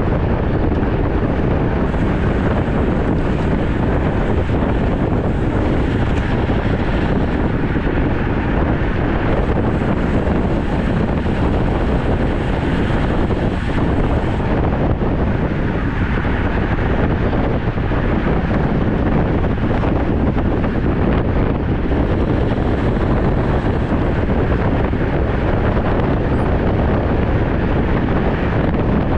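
Steady wind noise buffeting the microphone of a camera riding along on a road bike, a constant loud rushing and rumbling with no break.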